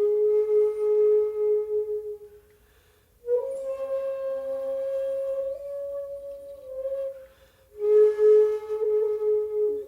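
Solo shakuhachi (end-blown bamboo flute) playing slow, long held notes with audible breath: a lower note fading out after about two seconds, a short pause, a higher note held for about four seconds with a slight bend, then a return to the lower note.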